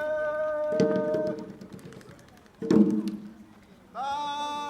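A voice singing a long held note, with two drum strikes about two seconds apart, then a quieter gap and another long sung note starting near the end.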